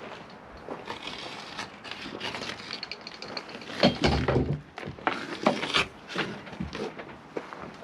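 Irregular knocks, clunks and rustling of gear being handled and moved, with a few sharper knocks about four seconds in and again a little later; no power tool running.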